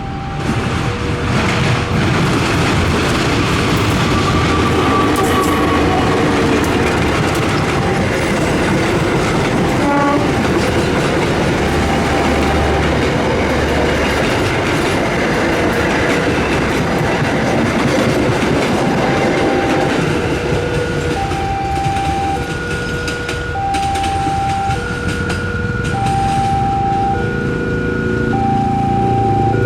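Diesel-hauled passenger train, the Penataran, passing close by with heavy rumble and wheel clatter on the rails. A two-tone electronic warning alarm sounds in steady alternation throughout and stands out more clearly after about twenty seconds as the train noise eases.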